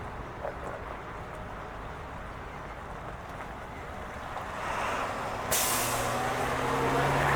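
Diesel school bus: a low engine rumble, then a sudden hiss of air brakes about five and a half seconds in, after which the engine's steady note grows louder.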